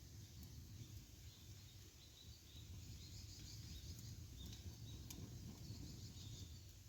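Faint campfire with a few sharp crackles over a low steady outdoor rumble, with faint high chirps.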